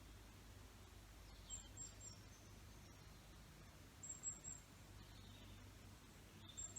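Faint outdoor quiet with a few short, high bird chirps, some with little falling notes, coming in small clusters every couple of seconds.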